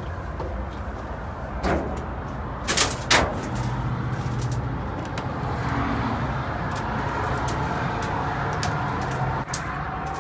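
Clanks and knocks as a person climbs the steel boarding steps into an old railway passenger car: one knock about two seconds in and two louder ones close together about three seconds in. Wind rumble on the microphone runs under it.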